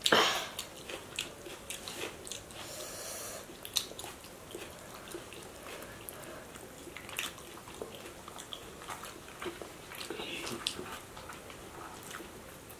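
Close-up eating sounds of two people eating fried fish and rice with their hands: chewing and scattered small clicks and smacks, with one louder sharp sound right at the start.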